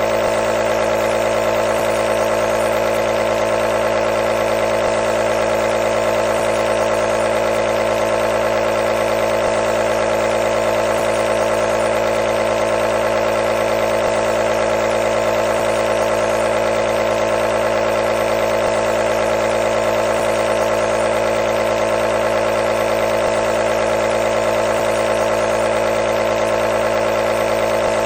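Nebulizer's compressor running continuously: a steady, even buzzing hum with a hiss of air over it, unchanging throughout.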